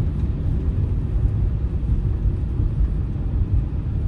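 Steady low rumble of tyres and engine heard inside a moving car's cabin.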